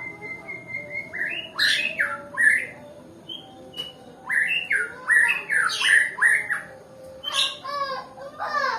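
White-rumped shama (Nias murai batu) giving harsh, scratchy calls in three short bursts instead of full song, typical of a shama that is not in the mood to sing. A faint, rapidly pulsing high tone sounds in the first second.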